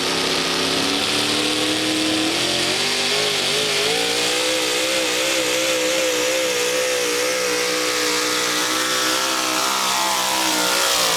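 Modified four-wheel-drive pulling truck engine at full throttle, pulling the sled. The pitch climbs in steps early on and then holds high with a slight waver. It drops sharply right at the end as the throttle comes off.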